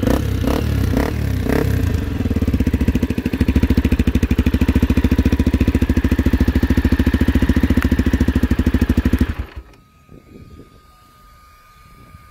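Dirt bike engine blipped a few times, then running steadily at a fast idle with an even pulsing beat, and cutting out abruptly about nine seconds in.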